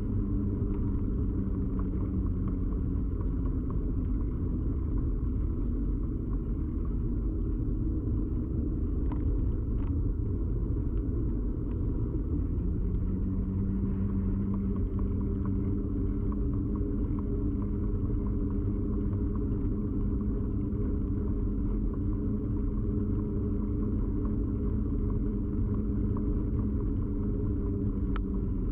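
Steady rumble and hum of a bicycle ride, carried straight into a camera fixed to the bike's frame, with a few faint ticks.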